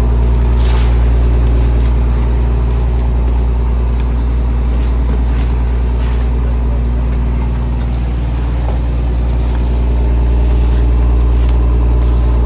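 Fishing trawler's engine running steadily at a constant speed, a deep drone with a thin high whine over it.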